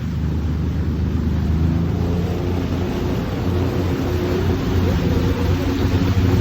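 Jet ski engine under way, growing louder at the start and then running steadily, with water and wind noise around it.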